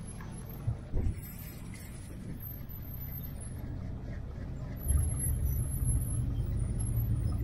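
Car engine rumbling at low speed, with two brief thumps about a second in; the engine gets louder and heavier about five seconds in.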